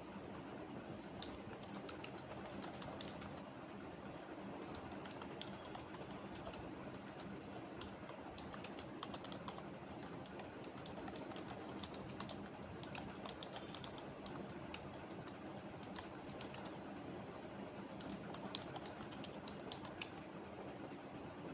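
Computer keyboard typing: irregular, uneven keystroke clicks, faint, over a steady low background hum.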